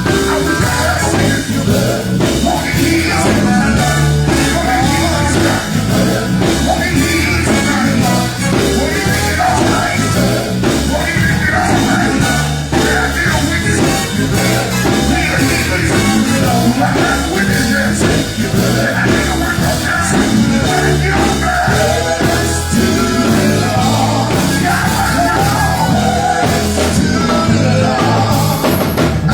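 Live gospel band playing a loud, steady up-tempo vamp on electric guitar, bass and drums, with voices singing over it.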